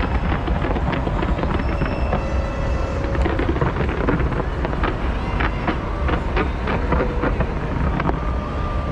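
Fireworks going off in quick succession: many sharp bangs and crackles over a steady low rumble, with crowd voices beneath.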